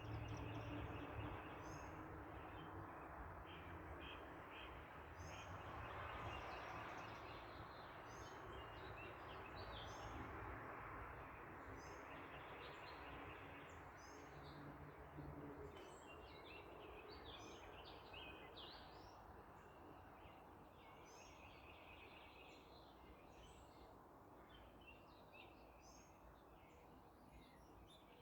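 Faint backyard ambience: small birds chirping over and over, an on-and-off insect buzz, and the distant rush of passing traffic that swells early on and then slowly fades.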